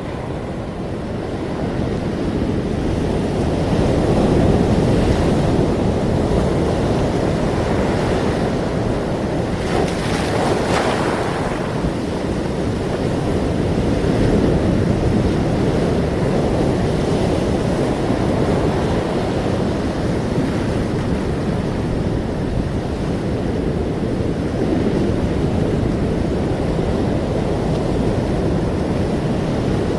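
Ocean surf: waves breaking and washing in a continuous rush that swells and eases slowly, with one brighter, hissier wash about ten seconds in.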